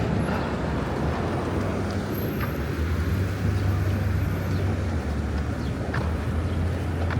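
City street traffic noise with a vehicle engine's low, steady hum, which grows stronger about two and a half seconds in.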